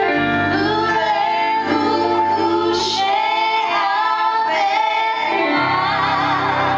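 A woman singing long held notes with vibrato over band accompaniment, in a live stage musical number.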